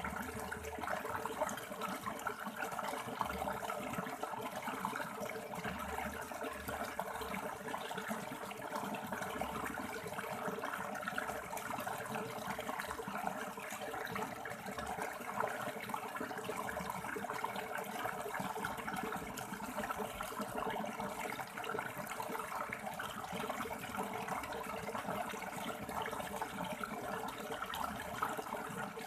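River water running and splashing over rocks, a steady rushing and babbling.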